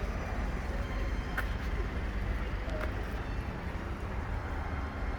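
Steady low outdoor background rumble, with a few faint short clicks.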